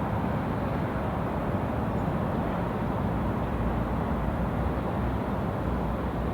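Steady city street ambience: an even, low rumble of distant traffic, with no single sound standing out.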